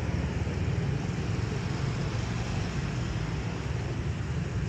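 Steady low outdoor rumble with no distinct events: background noise typical of street traffic around an open square.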